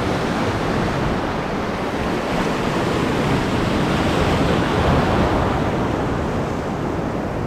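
Steady wash of sea surf over a shallow reef, with wind buffeting the microphone.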